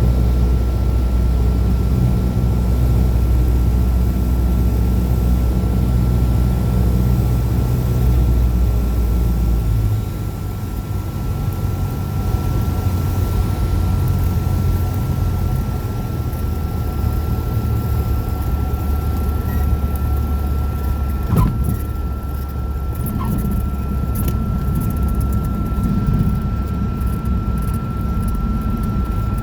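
Cessna 172's piston engine and propeller running with a steady drone, which drops in level about a third of the way through. A thin steady high tone runs underneath, and there is a single click about two-thirds of the way in.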